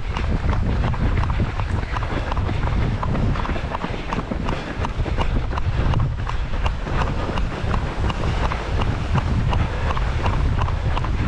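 A runner's footsteps striking the pavement in a steady rhythm of about three steps a second, with strong wind buffeting the microphone.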